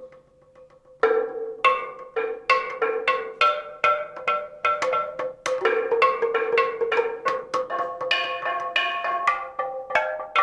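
Music from a pitched percussion instrument struck quickly in an uneven rhythm, each note ringing briefly; after a near pause of about a second, it comes in at about three to four notes a second.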